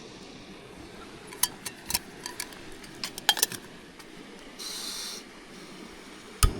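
A series of light clicks and clacks as small hard objects are handled, then a short hiss, and a single sharp thump near the end.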